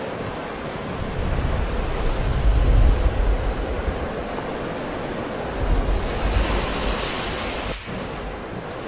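Sea surf washing steadily onto a shore. Louder surges swell up about a second and a half in and again around six seconds, the second ending in a hissing wash. Wind rumbles on the microphone underneath.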